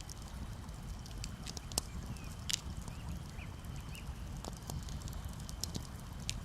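Campfire crackling with frequent sharp pops over a steady low rumble of gentle waves. A few faint short chirps or calls come through near the middle.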